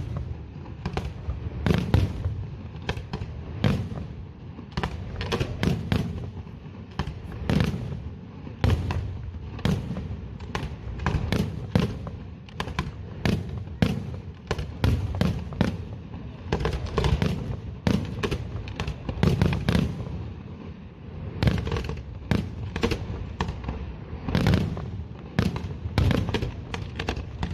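Aerial fireworks going off in rapid succession, a dense run of sharp bangs and deep booms, several a second, with no let-up.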